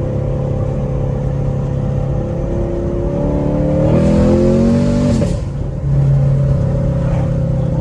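Straight-piped Camaro SS 6.2-litre V8 exhaust while driving, running steadily. About four seconds in, its pitch climbs for about a second as it accelerates. Then the pitch falls and the sound dips briefly before settling back to a steady run.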